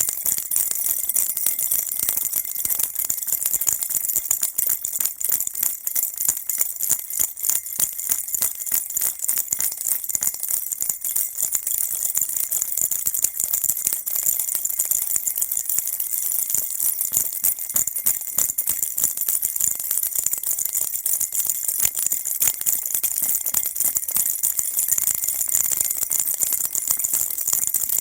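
Baby rattle shaken continuously, a dense, steady stream of high tinkling jingles and clicks.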